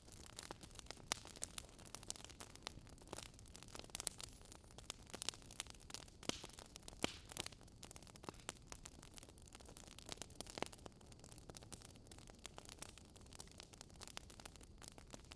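Wood fire crackling faintly: irregular sharp pops and snaps over a low steady hiss.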